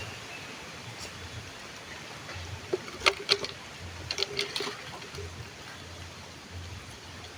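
Stream water flowing and trickling steadily, with two short clusters of sharp clicks or knocks about three and four seconds in.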